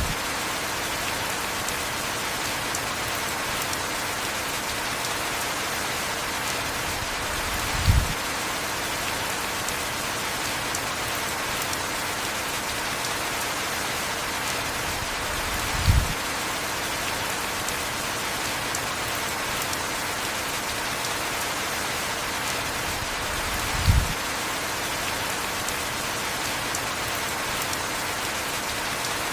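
Heavy rain falling steadily, an even hiss. A short low thump sounds four times, evenly every eight seconds.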